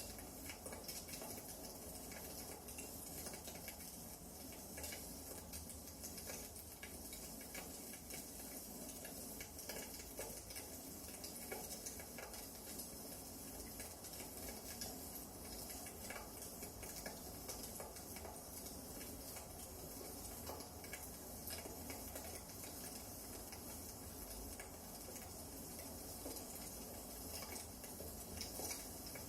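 Wood fire burning in a fireplace, crackling with irregular small pops and snaps over a faint steady rush.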